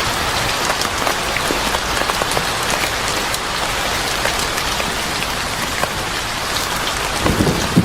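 Steady rain falling, a dense even hiss with scattered sharp crackles and drops. Near the end a low rumble of thunder begins.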